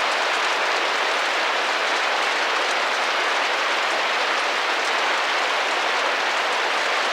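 Rain drumming gently against a window: a steady, even hiss of many drops that neither builds nor pauses.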